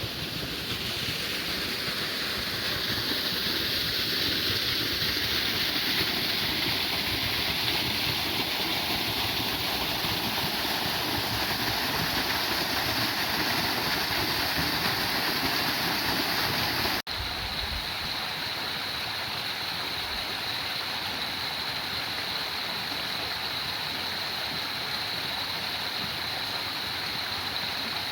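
Waterfall rushing, a steady even splash. About two-thirds of the way through it drops out for an instant and comes back thinner and higher.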